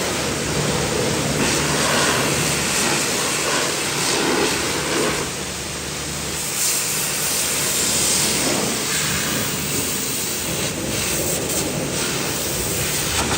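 Pressure washer spraying water onto a car's bodywork: a steady hiss of spray that swells and eases as the jet moves, dipping briefly about halfway through.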